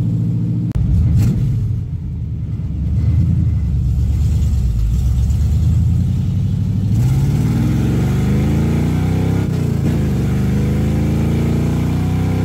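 1969 Camaro's 307 small-block Chevy V8 running under load, heard from inside the cabin while driving. The engine gets louder a little under a second in, and the revs climb about seven seconds in.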